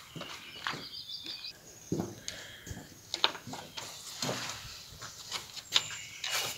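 Songbirds singing outdoors in short high phrases, with a few sharp clicks and knocks scattered through.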